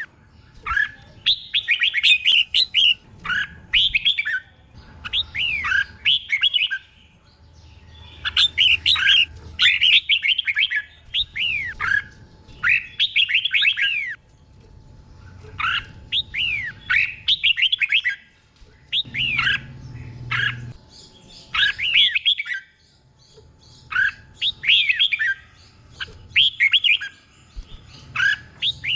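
Red-whiskered bulbul singing: short phrases of quick, clear whistled notes that slide downward, repeated over and over with brief pauses, many phrases given doubled in close pairs.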